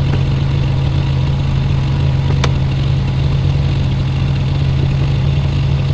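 Semi-truck diesel engine idling steadily with a constant low hum, with a single sharp click about two and a half seconds in.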